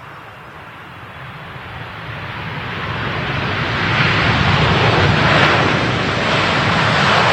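Jet airliner's engines on a landing approach, a rushing roar that swells over about four seconds as the plane nears, then stays loud.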